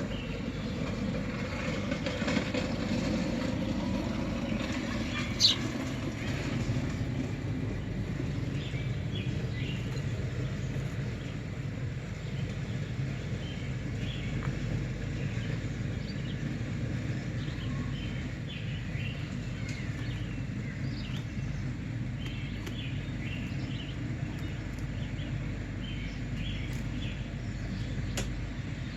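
Steady low outdoor rumble with faint, short bird chirps scattered through it, and one sharp high chirp or click about five seconds in.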